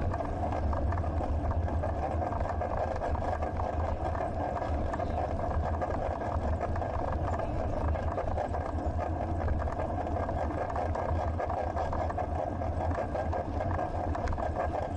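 Riding noise of a bicycle picked up by a POV action camera: a steady low rumble of wind and tyres on the pavement with constant fine rattling and clicking.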